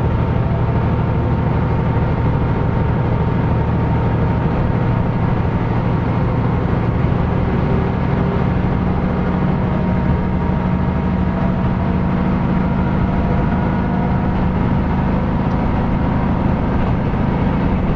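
KiHa 125 diesel railcar heard from inside the car, its diesel engine running under way with a steady low drone, wheel and rail noise, and a faint steady whine.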